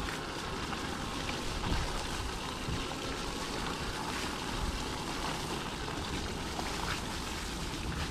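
Steady wet rushing of an electric bike's fat street tyres rolling through snow and slush, with wind buffeting the microphone.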